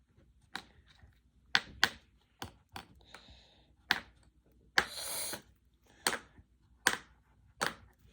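Drawing supplies clicking and tapping on a tabletop during colouring: about ten sharp, irregular taps, with a short scratchy rub about five seconds in.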